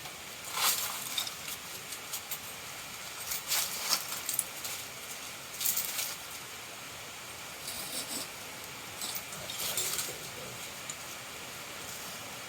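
Scattered metallic clinks and scrapes as a dog-proof trap is handled, set and toggled to a stick.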